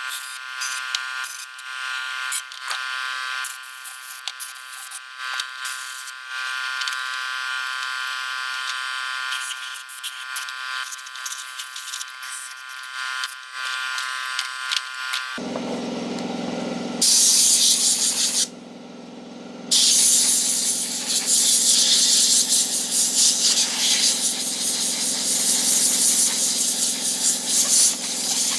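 A steady high whine laced with rapid clicking, which gives way about halfway through to a loud hissing spray. The spray stops for about a second, starts again, and cuts off near the end.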